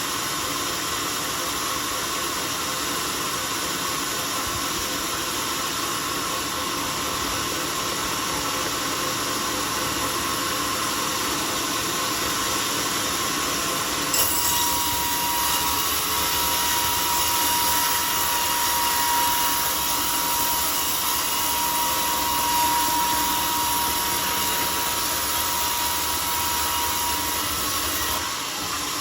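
Homemade sawmill running steadily. About halfway through the blade bites into the teak log with a sharp start and saws on with a steady high tone, which stops shortly before the end.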